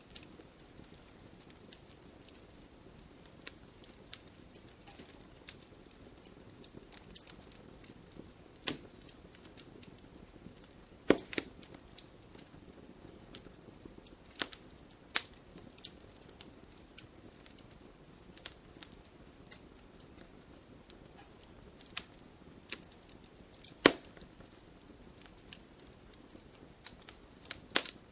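Wood campfire crackling: irregular sharp pops and snaps over a faint, low, steady hiss of flame. A few pops stand out louder, about eleven seconds in and again near twenty-four seconds.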